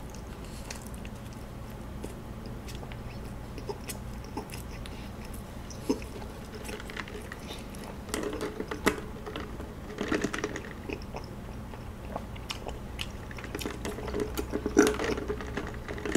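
Close-miked chewing of soft kaya toast: wet mouth sounds and small clicks. From about eight seconds in come louder clusters of sipping and swallowing an iced drink through a straw.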